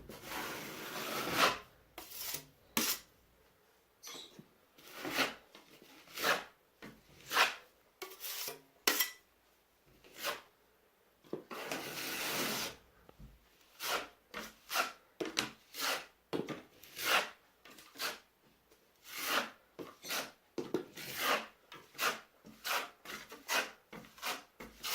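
Metal drywall knife spreading and scraping joint compound over a drywall crack, in many short strokes with a few longer drags.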